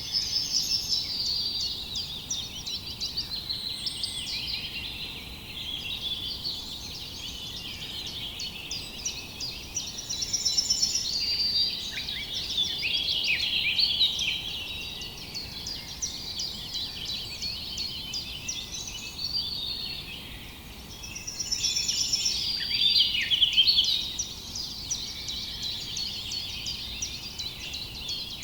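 Several songbirds chirping and singing at once, a dense chorus of quick overlapping chirps and trills that swells louder twice, about a third of the way in and again past the middle.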